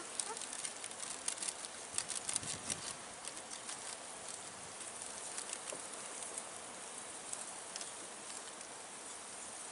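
Campfire crackling and popping over a steady hiss, the pops coming thick and fast for the first few seconds and then thinning out.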